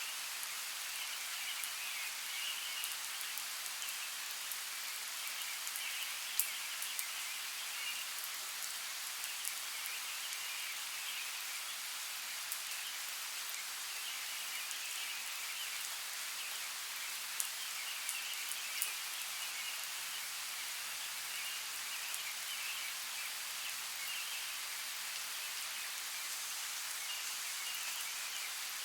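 Steady rain falling, a constant hiss with a few sharper drop ticks. An intermittent high trill comes and goes in the background.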